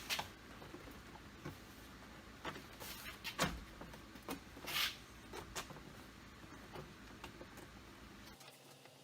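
Scattered light clicks and taps from a Jeep Wrangler JK's plastic inside door panel and trim being handled and fitted back on, with a short scraping sound a little before the middle.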